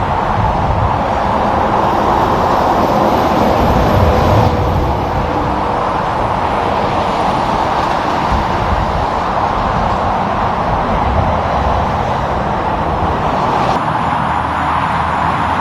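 Steady highway traffic noise: vehicles rolling past with continuous tyre roar on the pavement and engine rumble underneath.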